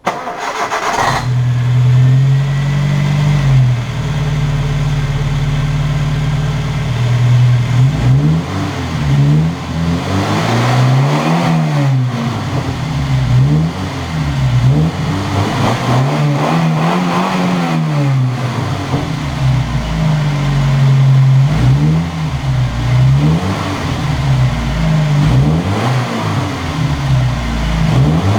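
Suzuki Vitara 1.6 8-valve four-cylinder petrol engine starting, then idling steadily for several seconds. From about eight seconds in it is revved again and again, each blip rising in pitch and falling back to idle.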